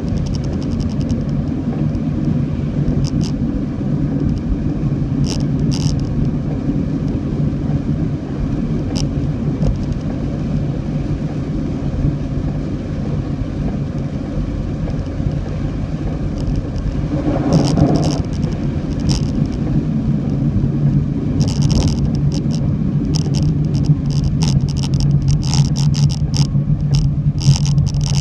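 Steady low drone of a car on the road, with scattered sharp ticks over it that grow thicker in the last third.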